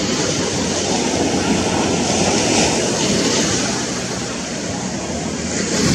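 Surf breaking and washing up a beach, a steady rush of water that swells about halfway through and again at the end.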